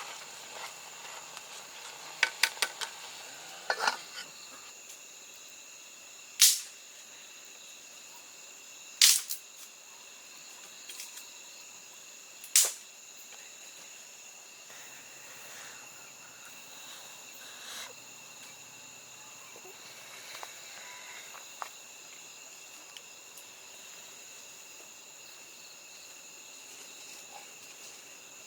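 Insects chirring steadily, with a handful of sharp knocks or snaps over the first half: a quick cluster about two seconds in, then three loud single ones a few seconds apart.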